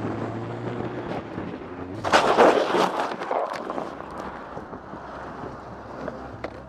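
Vehicle collision caught on a dashcam: a loud crash of impacts and clattering starts about two seconds in and lasts over a second. It comes over a steady hum of vehicle and road noise, and a few lighter knocks follow near the end.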